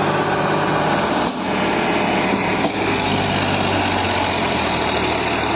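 Diesel engine of heavy machinery running steadily and loudly.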